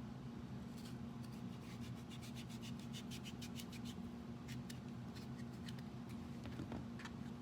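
A blade scraping and cutting at a pumpkin's skin in a quick run of short strokes, thinning out later, over a steady low electrical hum.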